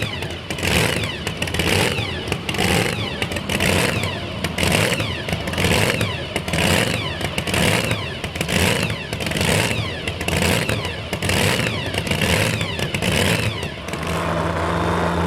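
Modified two-wheel-drive pulling truck's engine running hard under the load of the sled, its note surging about once a second. The announcer says the engine is not coming up to full RPM. Near the end the surging stops and the engine settles to a steady lower note.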